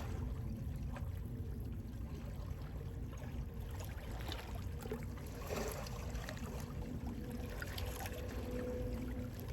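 Calm sea waves washing gently over a steady low rumble of sea wind, with small splashes about halfway through.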